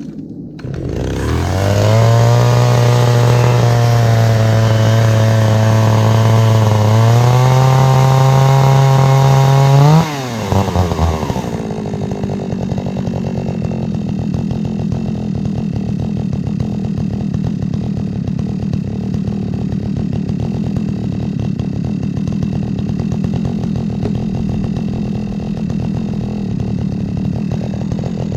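Chainsaw engine starting about a second in and running at a steady fast idle that steps up slightly around seven seconds; near ten seconds the throttle is blipped, the pitch rises sharply, and the saw drops to a lower, rougher idle that runs on.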